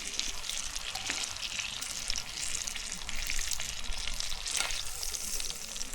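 Onions and green peppers sizzling and crackling in a hot pan, a steady frying hiss with quick small pops.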